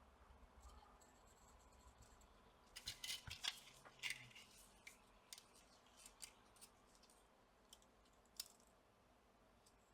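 Faint scraping and light clicks of small hand tools working the solder pads of a laptop motherboard during desoldering clean-up. A short run of rasping scrapes comes about three to four seconds in, followed by scattered single ticks.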